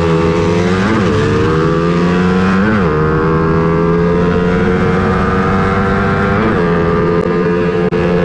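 Motor vehicle engine running at a steady, fairly high pitch, with three brief rises and falls in revs: about a second in, near three seconds, and past six seconds.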